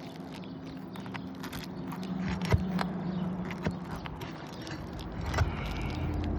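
Small metallic clicks, ticks and scrapes of a hand tool working a roofing staple out of a brittle, crispy shingle, with a few louder knocks, over a steady low hum.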